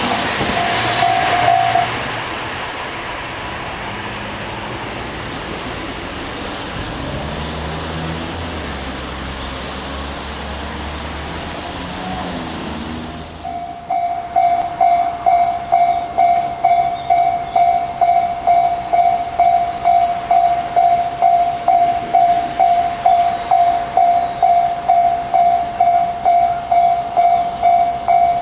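Electric commuter train running past on the line, a dense rumble with low motor tones, which stops abruptly about halfway. A Japanese level-crossing warning bell then rings in even electronic pulses, about two a second.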